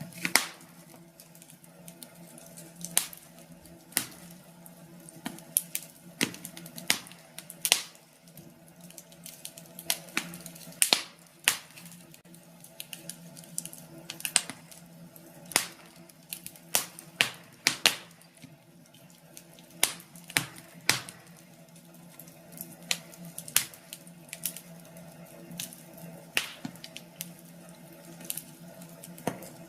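Wood fire crackling in a fireplace: irregular sharp pops and snaps, some louder than others, over a faint steady hum.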